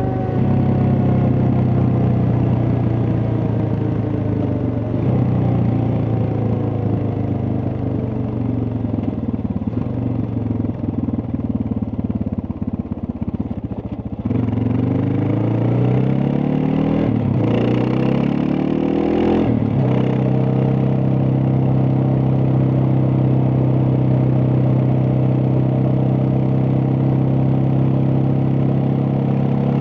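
Suzuki DR650's single-cylinder engine slowing, its pitch falling for the first half. It then revs up through two quick gears and settles at steady cruising revs.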